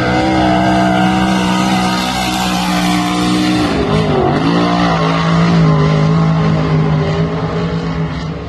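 Race car engine running hard at high revs, holding a steady pitch; about four seconds in the revs dip briefly and climb back.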